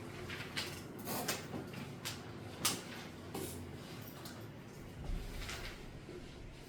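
Scattered brief rustles and light knocks of handling noise, several over a few seconds, over a faint steady room hum.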